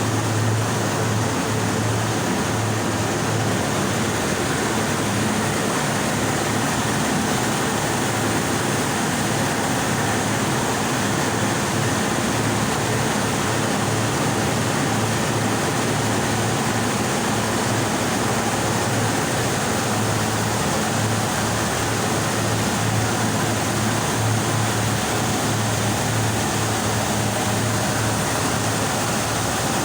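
A 6-ton combination steam boiler running under test: a steady, unbroken rushing noise with a low hum underneath.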